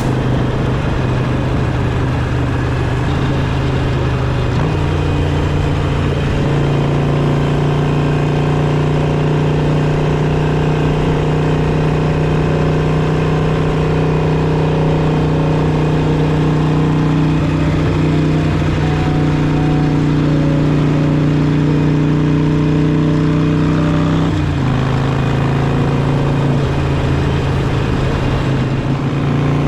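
Harley-Davidson Sportster V-twin engine running under way, a steady loud engine note that steps up in pitch a few seconds in and drops back near the end.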